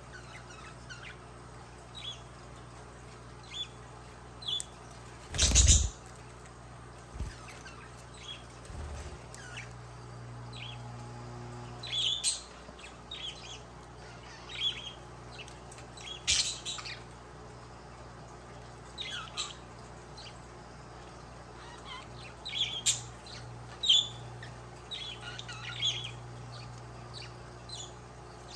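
Budgerigars giving short, scattered chirps and squawks over a low steady hum, with one loud sharp noise about five seconds in.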